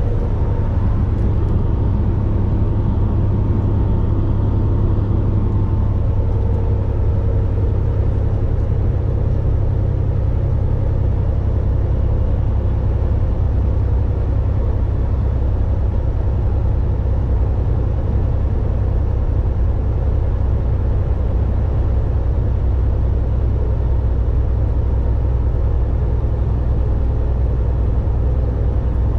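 Volvo VNL 860 semi-truck driving at highway speed: a steady low engine drone with road and tyre noise. A fainter higher whine fades out about seven seconds in.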